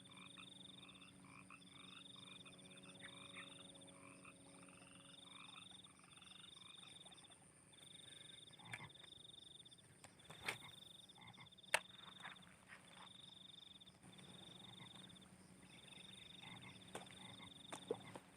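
Frogs calling in a chorus of repeated pulsed croaks, each bout about a second long, over a steady high-pitched hum. A few sharp clicks stand out around the middle.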